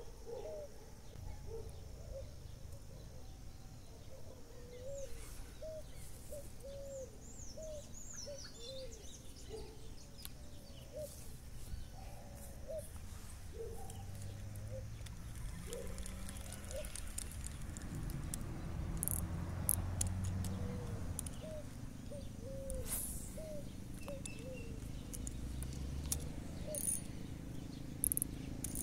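Birds calling: a short low call repeated over and over, about once a second, and a few high falling chirps early on, over a low rumble, with a few sharp clicks near the end.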